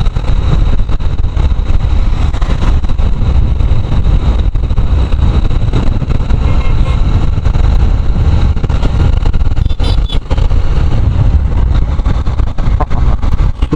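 Motorcycle riding along the road: a loud, steady rush of wind on the microphone mixed with engine and road noise.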